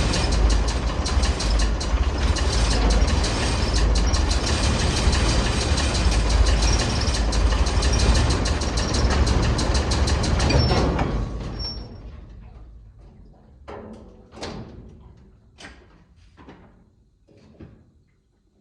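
Ford D series 1314 tipper truck's turbocharged engine idling steadily, then shut off about eleven seconds in and running down to a stop. A few faint knocks and clicks follow.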